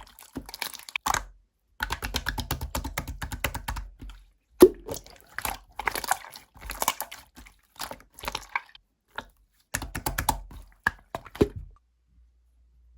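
Clear slime being squished and poked by hand, making bursts of rapid sticky clicks and wet pops. It stops shortly before the end.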